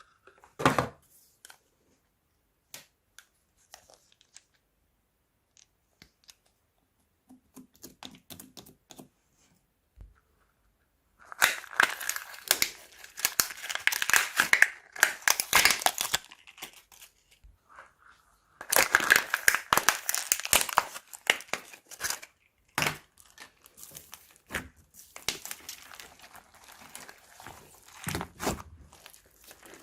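Crunchy slime being squeezed and worked by hand, giving dense crackling and crinkling. The first ten seconds are nearly quiet with a few faint clicks, then come two long stretches of thick crackling, with scattered crackles near the end.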